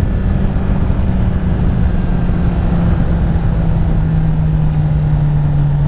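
2021 Honda CBR1000RR's inline-four engine running under way, buried in heavy wind noise. Its note slowly falls in pitch as the bike eases off.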